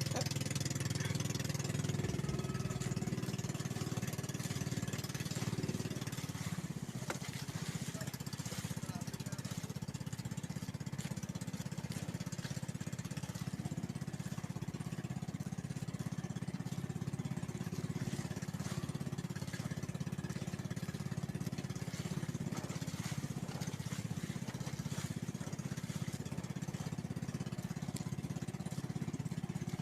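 Small boat engine running steadily at an even speed, with a hiss of wind and water behind it.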